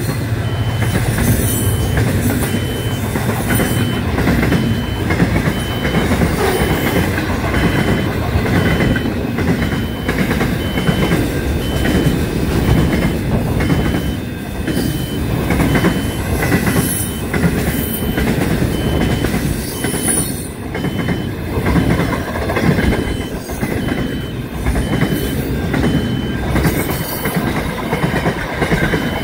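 Container freight train wagons passing close by at speed: a steady loud rumble of wheels on the rails with clickety-clack over the rail joints and a few brief high wheel squeals.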